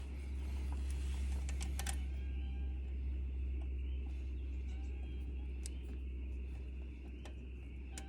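A few scattered light metallic clinks of hand tools and parts being handled, over a steady low hum.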